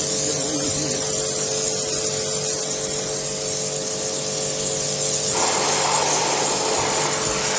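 Pressure washer running, its jet hissing as it blasts dirt and sand out of boat carpet, with a steady machine hum underneath. About five seconds in the spray's tone changes and gets fuller as the jet moves onto another spot.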